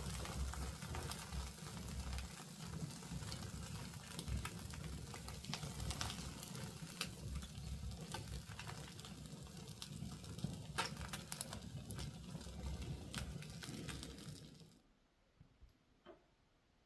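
Wood fire crackling and popping in a fireplace, with the sizzle of a chicken roasting on a spit over it. The sound cuts off suddenly about fifteen seconds in, leaving only a few faint pops.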